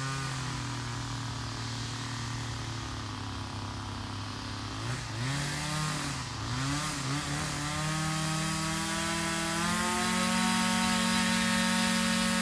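Small two-stroke engine running at a low steady speed, its pitch surging up and down unevenly about halfway through, then revving up in two steps to a steady high speed near the end.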